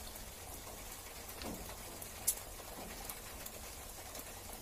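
Steady rain falling and dripping, with a faint dull knock about one and a half seconds in and a single sharp tick a little over two seconds in.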